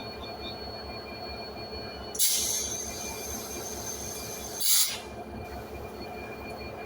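Diesel locomotive idling with a steady low rumble. About two seconds in, a loud hiss of air starts with a sudden burst and runs for about two and a half seconds, ending in a second short burst, as from the train's air brakes.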